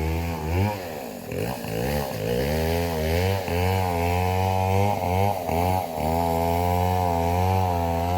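An engine running steadily with a wavering pitch; its revs drop and climb back up between about one and three seconds in.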